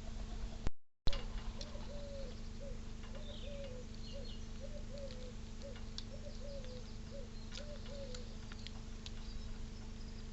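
A dove cooing: a run of paired coos, a short note then a longer slurred one, repeated about six times over several seconds. Faint small-bird chirps sound higher up, a steady electrical hum runs underneath, and the sound drops out briefly with a click about a second in.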